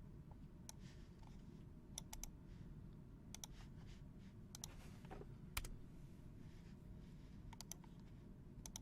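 Sparse sharp clicks at a computer, including a quick run of three about two seconds in and one louder click past the middle, over a low steady room hum.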